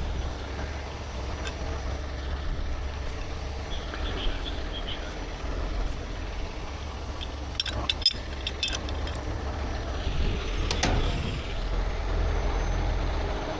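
Heavy truck diesel engine running steadily at idle, with a few sharp metallic clinks about eight seconds in.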